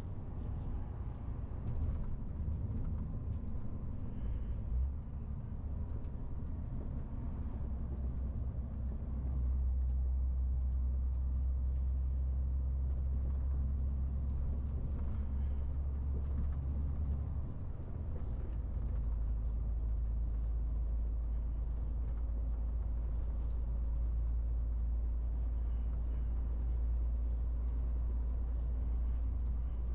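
MAN TGX 18.470 truck's straight-six diesel running under way, a steady low drone with road noise. It grows louder about nine seconds in, and its low note shifts around two-thirds of the way through.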